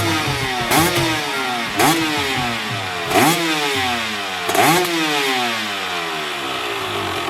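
2023 KTM 300 SX fuel-injected two-stroke engine revved in four sharp throttle blips, each one falling slowly back toward idle.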